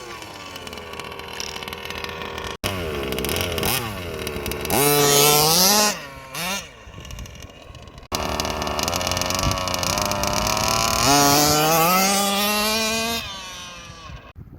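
Freshly rebuilt Zenoah G320RC 31.8cc two-stroke engine with a race-ported top end, revving up and down several times, its pitch climbing and dropping. The sound breaks off sharply twice.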